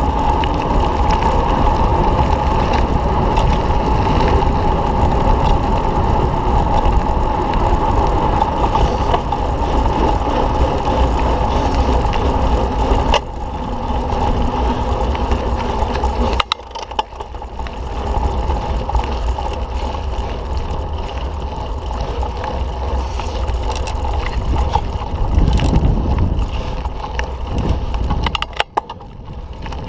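Mountain bike rolling over a dirt trail: steady tyre rumble and wind buffeting the microphone. About halfway through come two sharp knocks a few seconds apart.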